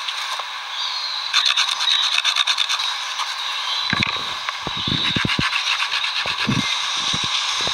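Rapid, evenly spaced scraping strokes for a couple of seconds, then a series of irregular dull knocks, over a steady hiss.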